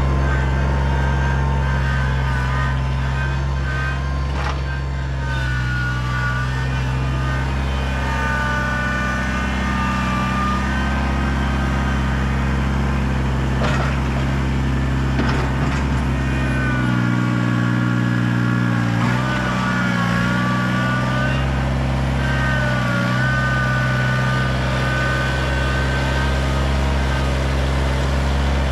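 Kubota BX compact tractor's small diesel engine running steadily under work, with a higher whine that wavers up and down and a shift in the engine note partway through as the load changes.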